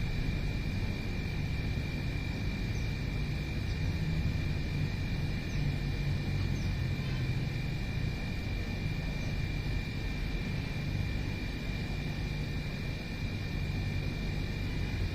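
Outdoor ambience: a steady low rumble under a continuous thin high-pitched whine, with a few faint, short bird chirps in the first half.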